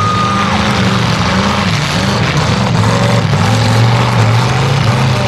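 Demolition derby cars' engines revving loudly, their pitch dipping and climbing again about two and three seconds in.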